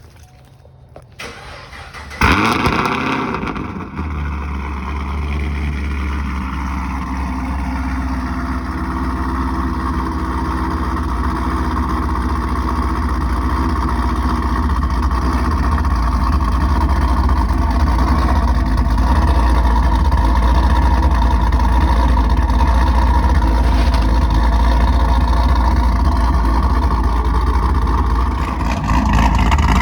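Modified Pontiac G8 V8 starting up: it fires with a sudden loud burst about two seconds in, then settles into a steady, low idle that grows slightly louder.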